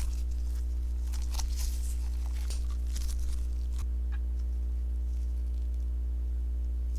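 Sponge slime being squeezed and pulled by hand, giving off quick crackles and small pops for about four seconds, then only a few scattered clicks. A steady low hum runs underneath.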